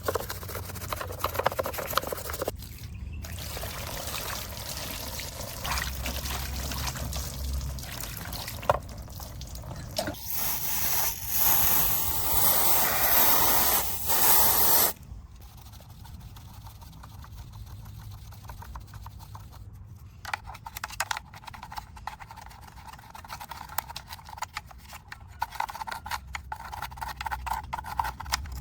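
Water dripping, trickling and splashing, with small scrapes and taps, as a muddy 1:24 diecast model car is washed. Near the middle, a loud burst of spray hiss lasts about five seconds and cuts off sharply.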